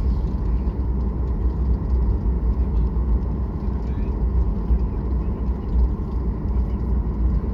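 Steady low rumble of a jet airliner's engines and rushing air.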